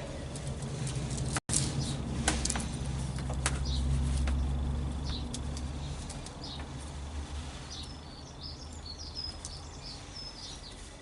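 Outdoor background: a low rumble swells and fades around the middle, a few sharp clicks come in the first few seconds, and small birds chirp near the end.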